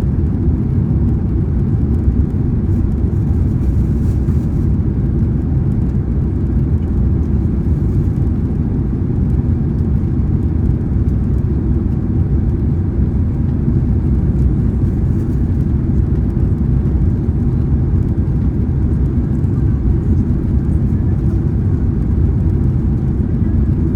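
Steady low rumble of a Boeing 767-300ER's engines and airflow, heard inside the passenger cabin.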